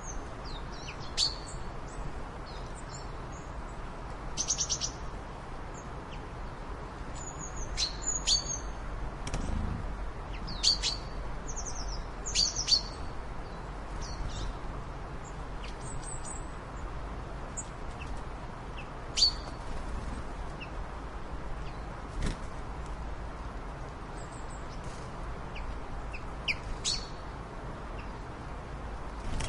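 Small birds chirping: short, high chirps and quick trills at irregular intervals over a steady low background noise.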